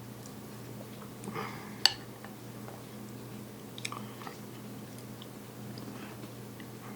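A person eating a rice dish: quiet chewing with a few short clicks of a spoon against the bowl, the sharpest about two seconds in and a few more around four seconds. A steady low hum runs underneath.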